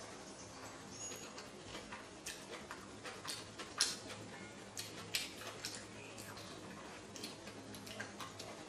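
A person chewing a mouthful of shredded crab salad, with irregular wet mouth clicks and smacks.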